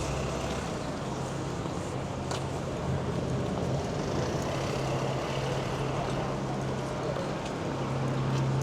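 Street ambience of road traffic, with a steady low engine hum throughout and a single sharp click a couple of seconds in.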